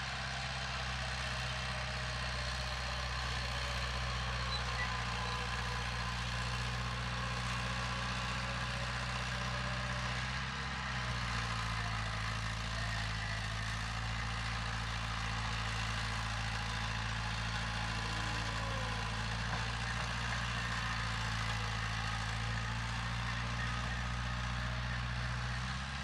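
Heavy diesel engine of earthmoving equipment running steadily at low revs, its pitch stepping slightly about ten seconds in.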